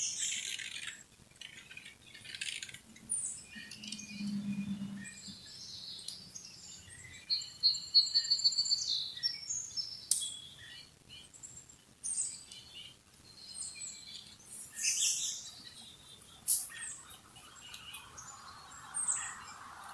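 Wild songbirds chirping, with a fast trill of repeated high notes about seven seconds in and scattered short calls. A brief low hum about four seconds in.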